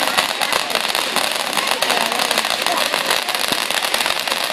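Fireworks crackling and popping without a break: a dense, steady hiss made of many small cracks.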